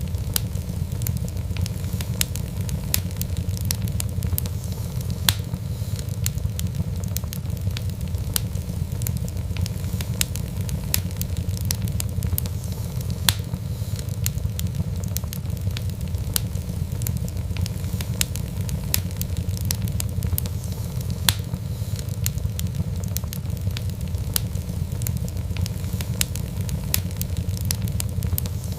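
Wood fire burning steadily with a low rumble and frequent irregular crackles and pops of burning logs.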